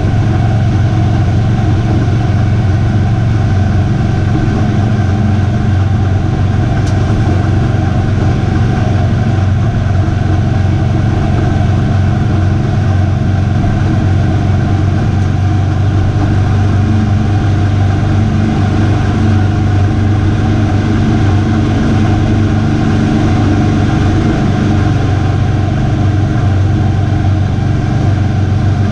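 Pro truck's V8 race engine running hard and steady, its pitch holding nearly level throughout with no breaks.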